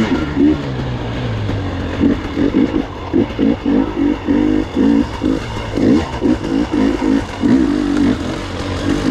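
Gas Gas EX 300 two-stroke enduro motorcycle engine being ridden with short, repeated throttle blips, its pitch rising and falling about twice a second.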